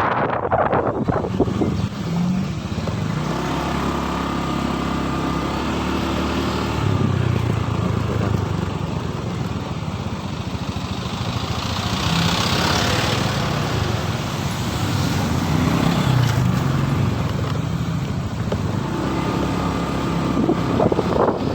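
Motorcycle engine running while riding, its pitch shifting with the throttle, under a steady rush of wind and road noise. A brief hiss comes in about twelve seconds in.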